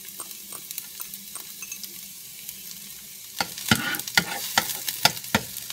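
Chopped onion sizzling in hot melted butter in a nonstick frying pan, with a steady hiss and small crackles. From about three and a half seconds in, a metal spoon stirring the onion scrapes and knocks against the pan, about three knocks a second.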